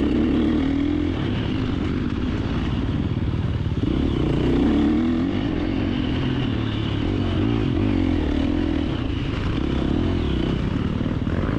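2024 KTM 350 XC-F dirt bike's single-cylinder four-stroke engine being ridden hard off-road, its revs rising and falling repeatedly as the throttle is worked.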